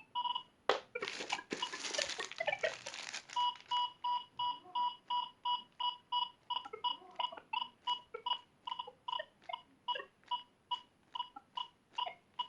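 Quasar ARM metal detector giving a steady run of short beeps of one pitch, about three a second, while it is tested after a repair. A rustling, crackling noise fills about two and a half seconds near the start, before the beeps settle in.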